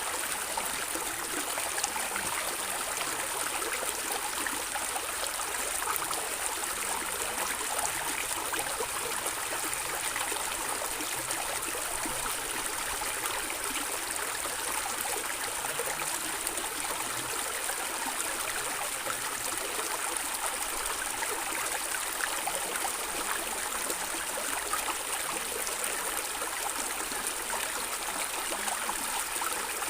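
A small stream running and gurgling over stones, a steady rush of water with fine trickling splashes.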